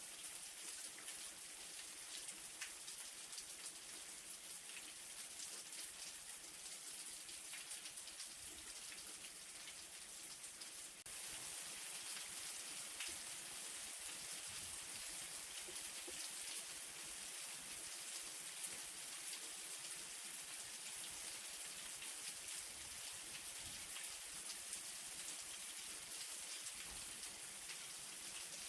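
Light rain falling steadily, an even hiss with the patter of individual drops. It abruptly gets a little louder about eleven seconds in.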